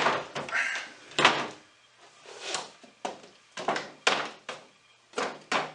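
Wooden chest-of-drawers drawer being slid out and handled: a string of about nine wooden knocks and scrapes. The drawer's joints have popped loose and it needs re-gluing.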